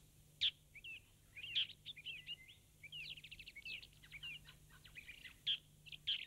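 Birdsong: several birds chirping and twittering in quick, warbling phrases throughout.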